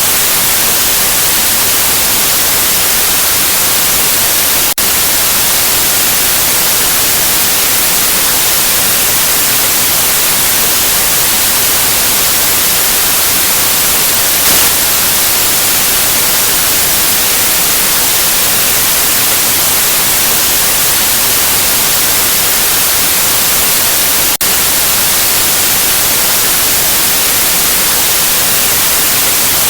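Continuous white noise: a loud, even hiss that is strongest in the highs. It drops out for an instant twice, about twenty seconds apart.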